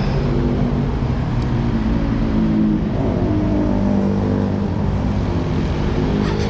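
Honda Sonic 150R's single-cylinder four-stroke engine idling through an aftermarket Proliner TR1 short exhaust, a steady, fairly loud exhaust note with small wobbles in pitch.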